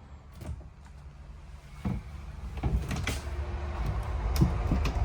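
RV cabinet doors and latches being opened and closed: a string of light clicks and knocks, over a low rumble that builds from about two seconds in.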